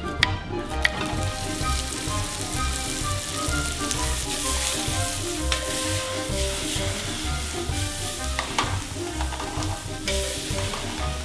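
Asparagus, cherry tomatoes and shrimp sizzling as they fry in olive oil in a sauté pan, over background music with a steady beat. A couple of sharp knife chops on a wooden cutting board come right at the start.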